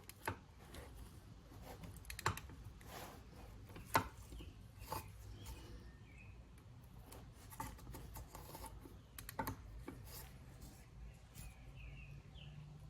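Faint, scattered clicks and light knocks of a hand tool against metal engine parts, at irregular intervals of a second or more.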